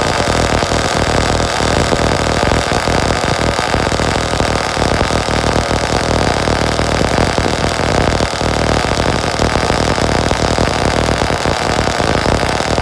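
O.S. Max .30 VG(P) nitro engine in a 1/8-scale Losi 8ight 2.0 buggy running steadily at idle with the car standing still. It is being broken in, left to sit and run through a tank of fuel.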